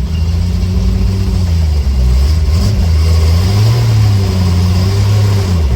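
Triumph TR5's race-tuned straight-six engine on triple Weber carburettors running with its revs held just above idle, rising and falling unevenly and lifting about halfway through before dropping back near the end. The high-lift cam makes it reluctant to idle smoothly.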